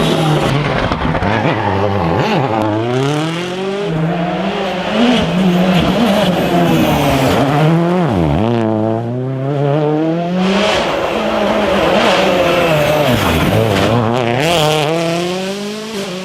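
Historic rally car's engine at full throttle on a closed stage, its pitch climbing and falling over and over as it shifts gears and lifts for corners, with sharp drops about three, eight and thirteen seconds in. The engine eases off and fades a little near the end.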